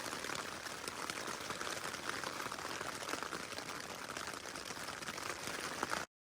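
Rain pattering steadily on a tent, a dense hiss of fine drop ticks that cuts off suddenly near the end.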